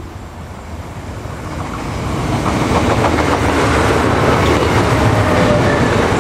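NIR 3000 class diesel multiple unit passing at speed. It grows louder over the first two to three seconds as it approaches, then stays loud with the rush of wheels on rail and clicking from the wheels.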